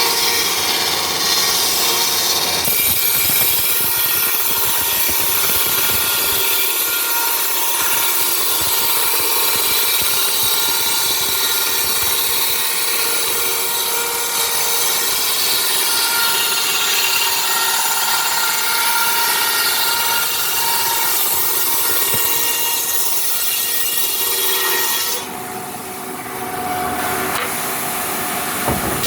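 Sawmill saw cutting through timber: a steady, loud rasping whine that eases for a couple of seconds near the end, then picks up again.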